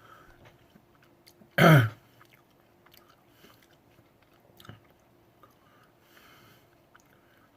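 A person chewing a bite of Chocolate Jigsaw chili pepper with quiet wet mouth noises. About two seconds in there is one short, loud throat sound.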